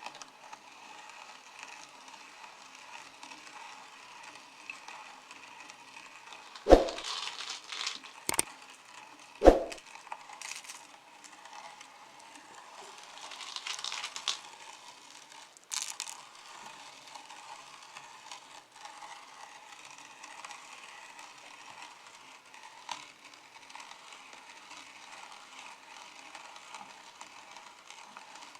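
Meat grinder crushing M&M's candies, a steady crackling crunch of hard sugar shells breaking, with two loud knocks a few seconds apart and a few sharper cracks.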